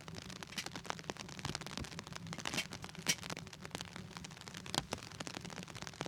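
Wood fire crackling, with irregular sharp pops, the loudest about three seconds in and again near five seconds, over rain pattering on the tent.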